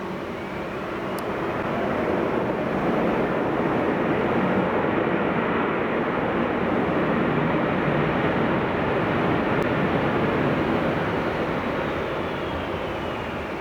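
Airbus A330-200 jet airliner passing on its landing, its engine noise swelling to a loud steady rush and then easing off. A faint engine whine rises in pitch early and slides down near the end.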